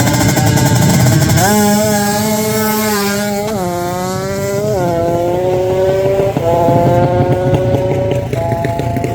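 Drag-racing motorcycle engine at high revs, its pitch jumping up sharply and then shifting in steps several times.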